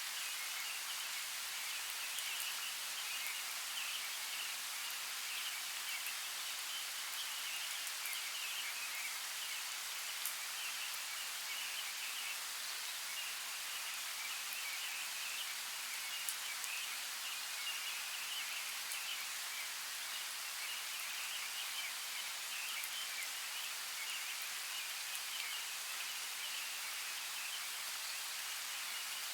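A forest creek flowing steadily: an even rush of water with a brighter, flickering hiss on top and no change in level.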